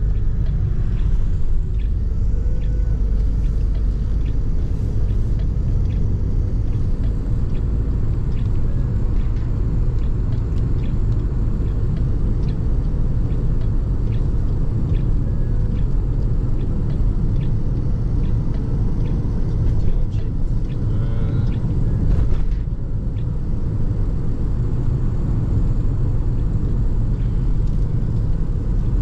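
Car driving along the road: a steady low rumble of engine and road noise.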